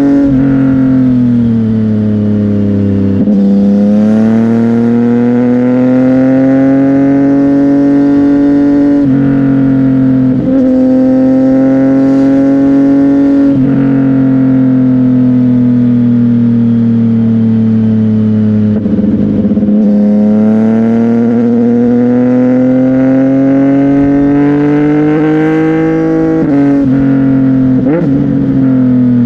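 CFMOTO 675NK's inline-three engine running through a Burnout titanium exhaust under riding load. The pitch climbs slowly through each gear and drops sharply at each gear change, about five times.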